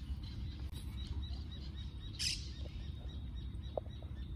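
Small birds chirping: a run of short, high chirps, with a brief hiss about two seconds in.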